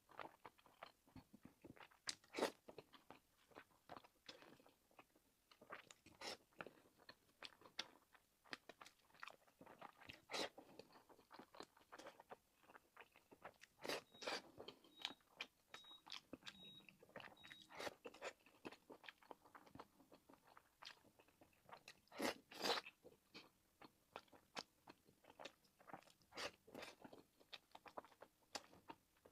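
Close-up mouth sounds of someone eating pork-and-green-onion dumplings: irregular wet smacks, bites and chewing clicks, with a few louder smacks about two seconds in and again past the twenty-second mark.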